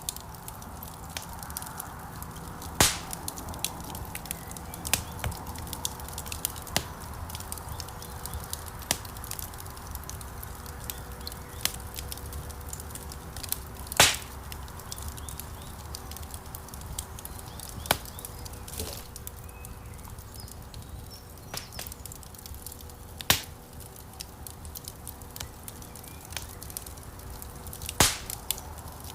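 Wood fire burning in a stone fireplace: a steady low rumble of flames with constant crackling and irregular loud pops from the burning logs, the loudest about a quarter and halfway through, again near the end.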